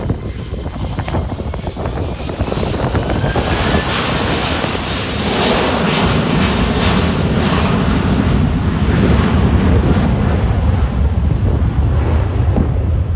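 Airliner departing, its engine roar building and peaking partway through as it climbs out, over steady low rumbling of wind buffeting the microphone.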